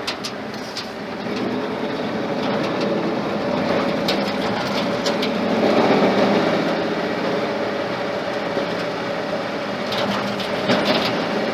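Ford flathead engine running under load as the truck drives along, pulling harder and louder over the first half, with a few rattles and clicks near the end.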